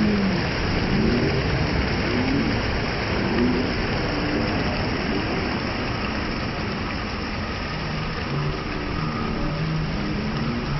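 Steady roar of a waterfall: falling water rushing without a break, with faint voices under it.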